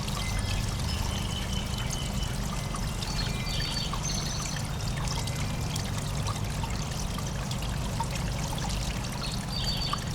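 Steady trickling and pouring of water in a backyard bird bath, with a few short, high bird notes over it: one held whistle early on, two more about four seconds in, and another near the end.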